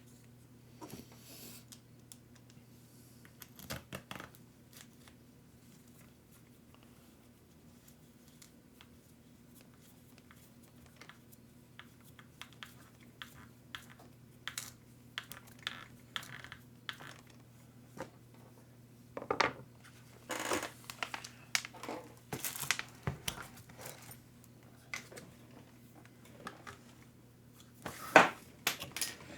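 Small RC truck parts clicking and clattering as they are picked up, set down and sorted by hand, with some rustling. The handling is sparse at first and gets busier in the second half, with a few louder clacks.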